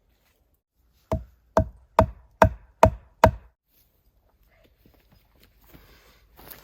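Six even knocks of wood striking wood, about two a second, each with a short hollow ring, followed by faint rustling.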